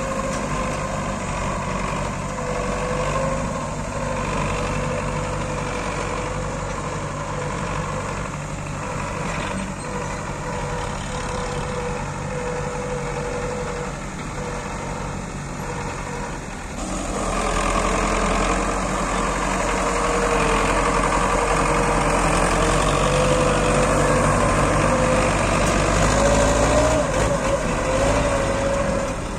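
Belarus tractor's diesel engine running steadily under load. It gets suddenly louder about halfway through and rises a little in pitch near the end.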